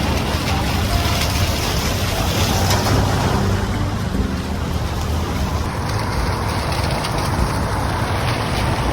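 Steady rain with strong wind buffeting the microphone: an even rushing noise with a heavy low rumble throughout.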